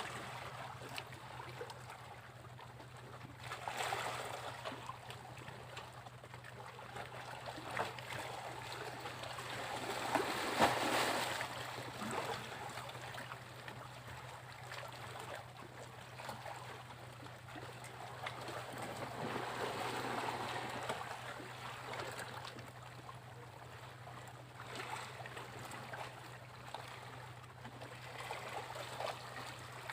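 Sea waves breaking and washing up a beach, the surf swelling and fading every several seconds with the loudest wave about eleven seconds in. A steady low hum runs underneath.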